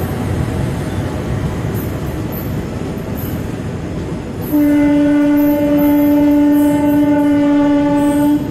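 Indian Railways passenger coaches passing at speed, a steady heavy rumble of wheels on the track. About halfway through, a train horn sounds one long steady single-pitched blast of about four seconds, which cuts off just before the end.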